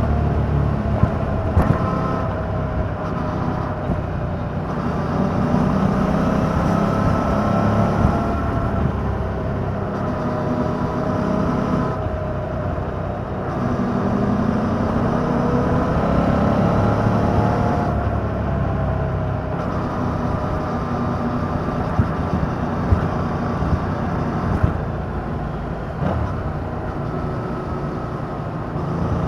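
Yamaha MT-07's parallel-twin engine running through its stock exhaust under way, its pitch rising and falling repeatedly as the throttle and revs change, over a steady rush of wind noise.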